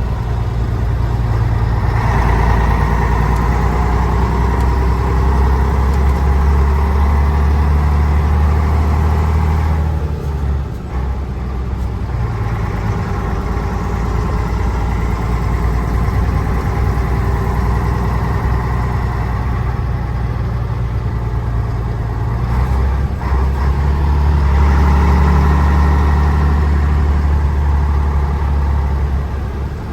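Mercedes-Benz 1518 truck's diesel engine pulling under load while being driven through the gears. The engine note breaks off and drops at a gear change about ten seconds in and again after about twenty-two seconds, then pulls louder again before easing off near the end.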